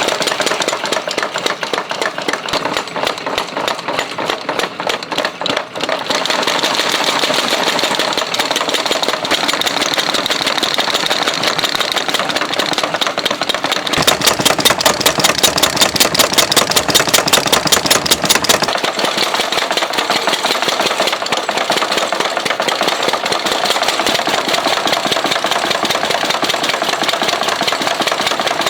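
Mechanical power hammer pounding hot steel in rapid, even blows, several a second, running continuously; the blows come louder and more regular for a few seconds midway.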